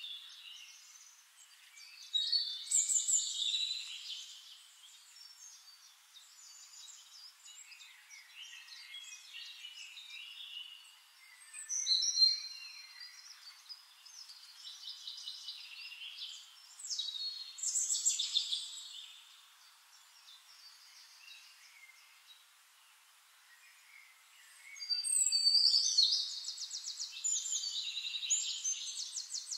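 Songbirds singing in the surrounding trees: bursts of quick high chirps and trills every several seconds, with quieter chirping between and the fullest song near the end.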